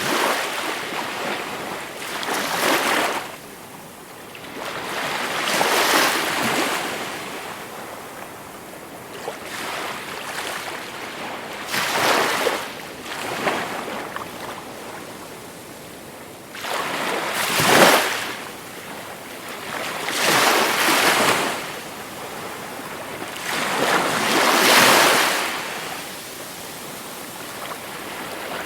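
Gentle sea waves breaking and washing up the shore, a surge of surf every few seconds that swells and then drains away.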